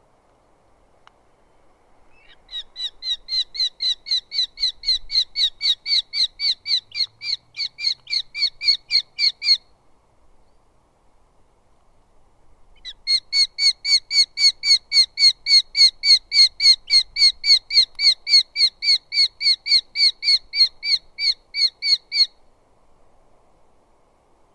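Eurasian hobby calling: a long run of rapid, evenly repeated sharp notes, about four a second, then after a few seconds' pause a second, longer run.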